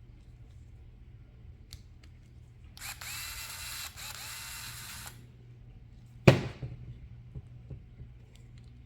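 Small electric screwdriver whirring in two short spells, each spinning up and winding down, as it works on a tiny screw in an RC car chassis. About six seconds in there is one sharp knock of a small part or tool.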